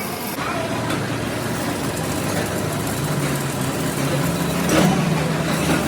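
An engine running steadily, with a short knock about five seconds in.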